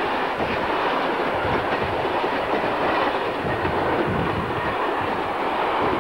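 Freight train of covered goods wagons passing close by, its wheels clattering along the rails in a steady, loud rumble.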